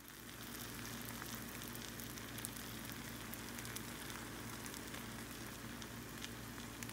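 Garlic-buttered grilled cheese sandwiches frying in a cast-iron skillet: a steady sizzle with fine crackles.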